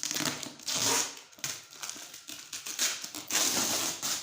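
A cardboard box being opened by hand: a run of irregular tearing, scraping and crinkling noises from the cardboard and its packing.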